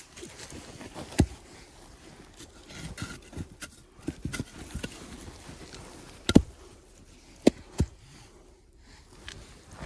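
A few sharp knocks at irregular intervals, the loudest about six seconds in and two more close together soon after, with quieter clatter and clicks between.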